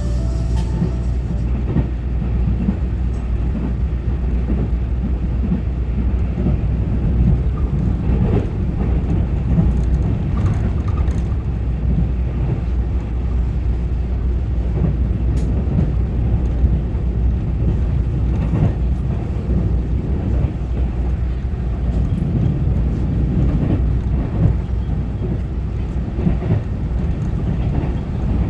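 Taiwan Railway EMU900-series electric commuter train running between stations, heard inside the passenger car: a steady low rumble of wheels on rail, with a few faint clicks scattered through.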